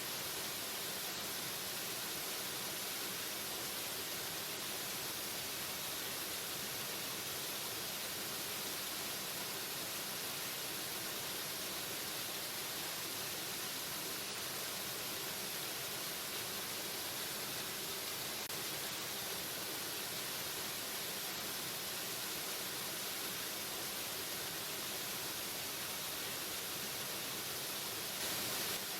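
Waterfall rushing: a steady, even hiss of falling water that is strongest in the high range, briefly a little louder near the end.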